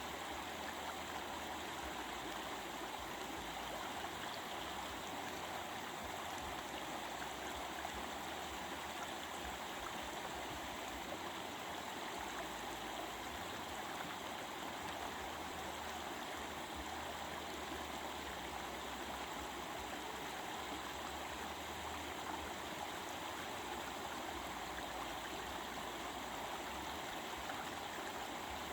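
A stream of running water babbling steadily, an even rush with no breaks or changes in level.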